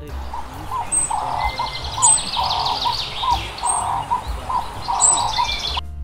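Birds calling in a repeating pattern: short sharp high chirps about every second or so, with lower rasping calls in between. The calls stop abruptly near the end.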